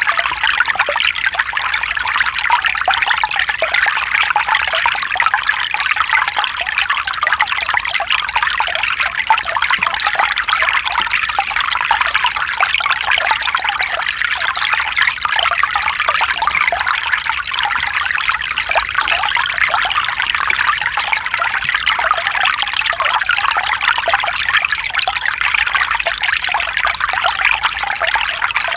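Mountain stream running over stones, a steady trickling and burbling of water that goes on unchanged.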